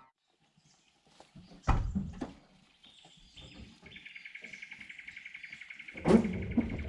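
An animal's rapid, evenly pulsing trill at one steady pitch, starting about four seconds in, with low knocks about two seconds in and again near the end.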